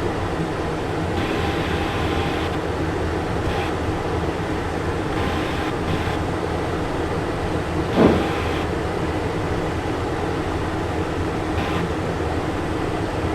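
Steady cockpit rumble of a Cessna Citation Encore on the ground with its turbofan engines running, and one brief bump about eight seconds in.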